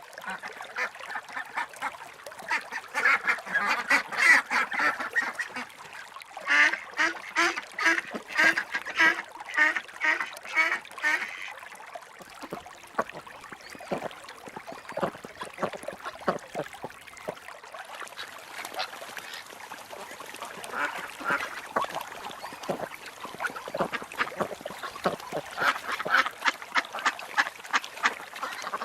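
Ducks quacking in runs of quick repeated calls, densest and loudest over the first dozen seconds, then sparser calls.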